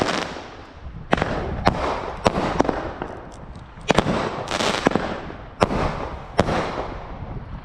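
Fireworks going off: about nine sharp bangs at irregular intervals, each trailing off into crackling.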